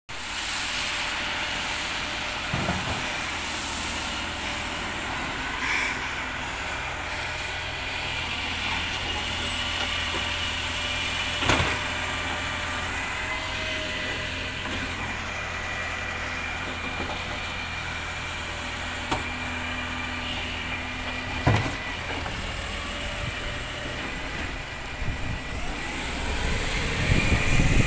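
Refuse collection truck running steadily, with a few sharp clunks about 3, 11 and 21 seconds in, growing louder near the end.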